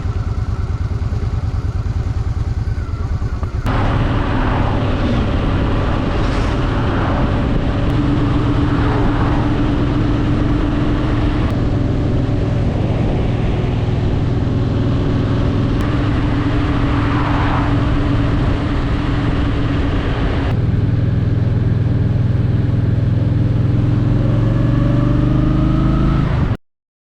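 Honda Shadow VT750's V-twin engine running steadily while riding. Its note changes abruptly about four seconds in and again about twenty seconds in. It rises slightly near the end, then cuts off suddenly.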